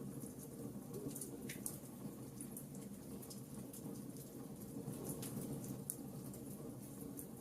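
Wood fire burning in a fireplace: a steady low rumble of flames with soft, scattered crackles and pops, two of them sharper about one and a half and five seconds in.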